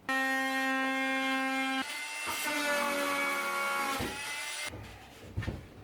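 Electric power saw cutting a new wooden board. Its motor whines steadily, the pitch changes about two seconds in as the blade works through the wood, and the motor stops about four seconds in.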